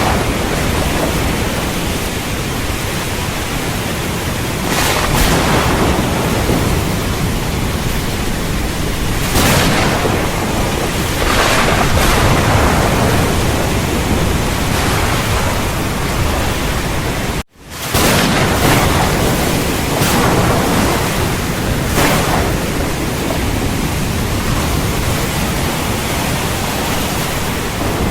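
Steady heavy rain with thunder, its dense hiss swelling in surges every few seconds. The sound cuts out for an instant about two-thirds of the way through, then resumes.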